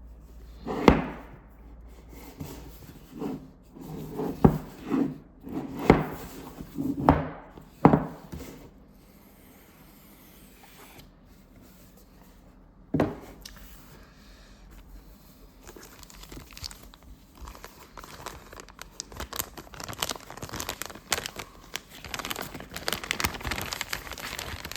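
Unboxing a product package: a cardboard box is handled with several knocks and scrapes near the start and one more knock midway. In the last third comes steady crinkling and rustling of paper and plastic packaging.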